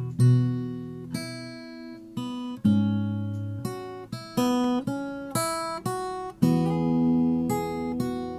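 Background music: an acoustic guitar playing plucked notes and chords, each one struck sharply and left to ring and fade.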